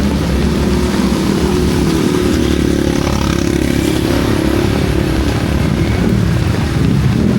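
A motor vehicle engine running close by, a steady drone that shifts a little in pitch, over the even hiss of heavy rain.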